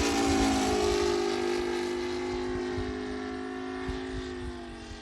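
Model aircraft ASP 400 radial glow engine droning in flight, its pitch slowly dropping as the sound fades.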